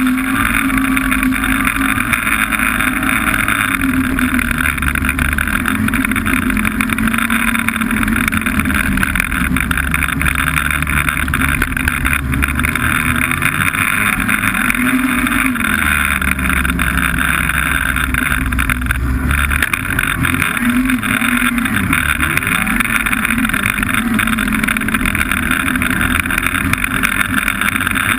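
Snowmobile engine running under way, its pitch rising and falling with the throttle, over a steady rushing noise.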